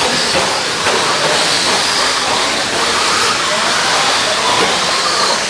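Several electric 1/10-scale RC stock trucks racing on a clay track: a steady hissing rush of motors and tyres with faint wavering high motor whines as they speed up and slow down.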